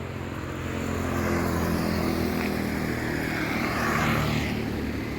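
A motor vehicle passing on the road: its engine grows louder, is loudest about four seconds in with the pitch dropping as it goes by, then fades away.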